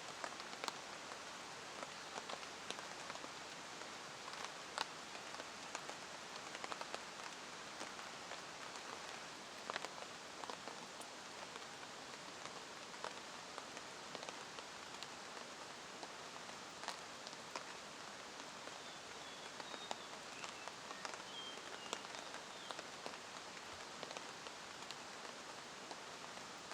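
Steady rain falling, with many individual drops ticking sharply on surfaces close by. A few faint high chirps come through in the second half.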